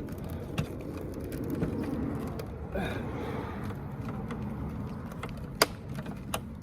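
Plastic bumper cover of a 2016 Honda Civic being pressed onto its retaining clips: a few faint clicks and one sharp, loud click about five and a half seconds in, over a steady low rumble. The clips are not holding, so the cover pops back out.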